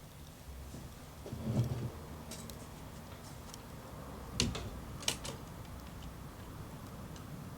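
Small wood fire crackling, with scattered ticks and two sharper pops about four and five seconds in, and a brief dull low rumble about a second and a half in.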